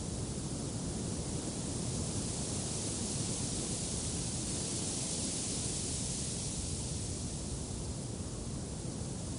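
Wind blowing: a steady rushing noise with a low rumble, swelling a little in the middle and easing toward the end.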